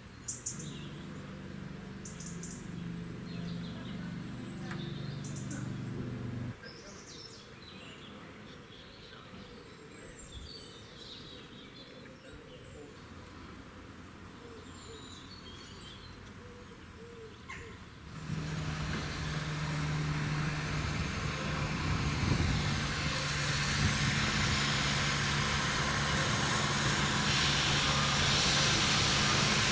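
Birds chirping over a low, steady engine hum that cuts off suddenly about six seconds in. From about eighteen seconds a locomotive-hauled train comes in, a low steady engine note under a loud hiss that grows steadily louder.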